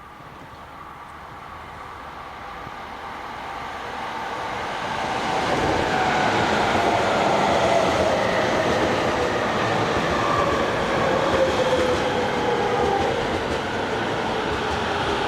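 Electric commuter train approaching along the platform and growing steadily louder over the first six seconds, then running past close by with wheel and rail noise. Its motor whine falls slowly in pitch.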